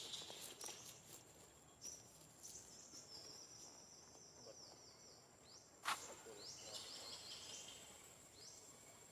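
Faint high chirping calls of small birds, a quick run of short sweeping notes repeated for a few seconds, broken by one sharp click about six seconds in.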